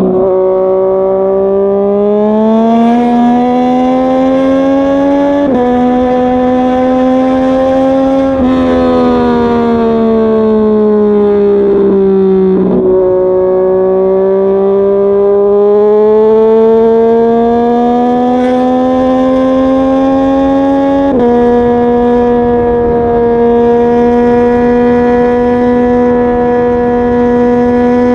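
Yamaha MT-09's inline-three engine running under way, its pitch climbing and falling with the throttle. It steps abruptly several times as gears change, then holds a steady cruising note for the last several seconds.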